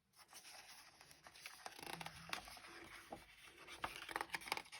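Faint rustling and small clicks of paper being handled: a picture book's page being turned.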